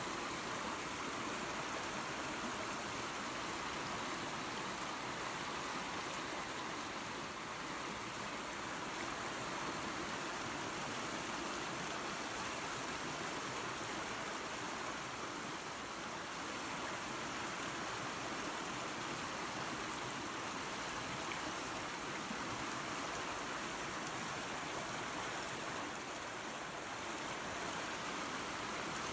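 Creek water and a small waterfall running steadily: a constant rushing hiss of water over rocks.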